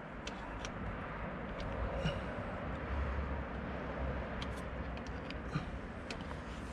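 Steady outdoor background noise with a low rumble and a few faint scattered clicks.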